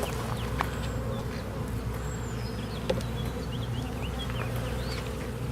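A swarm of honey bees buzzing around an opened hive: a steady, many-winged hum.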